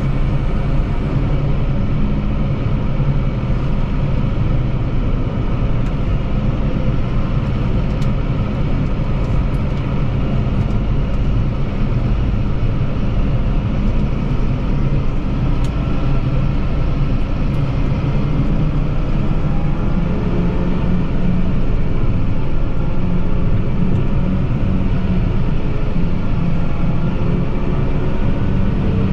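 Tractor engine running steadily, getting a little louder with its pitch drifting about twenty seconds in.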